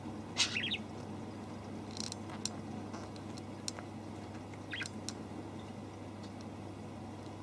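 A few short, high-pitched squeaky calls from a young animal, scattered over several seconds with small ticks between them, over a steady low hum.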